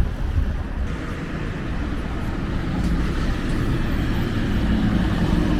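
Steady low rumble of vehicles in city traffic, slowly growing louder.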